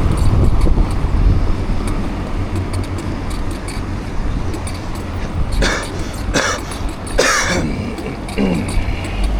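Several coughs and throat-clearing sounds in the second half, over a steady low rumble of wind on the microphone and road traffic.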